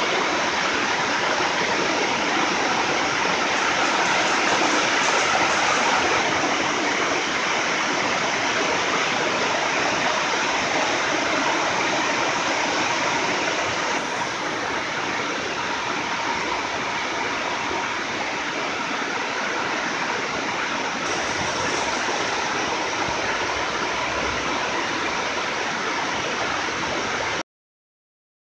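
Heavy rain pouring down in a steady, dense hiss. It becomes slightly quieter about halfway through and cuts off abruptly near the end.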